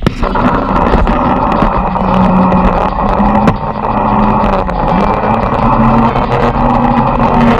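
Speedboat engine running loudly, its pitch shifting a few times.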